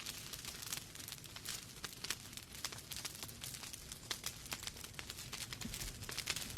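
Wood fire in a fireplace crackling, with many quick, irregular snaps and pops over a low, steady rumble.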